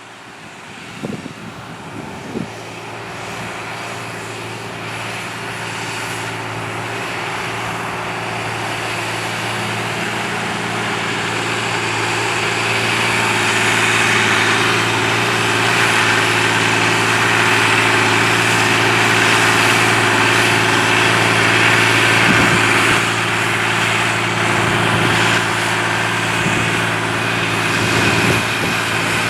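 John Deere 8300 tractor's six-cylinder diesel engine running under steady load as it pulls a cultivator, a constant drone that grows steadily louder over the first half and then holds.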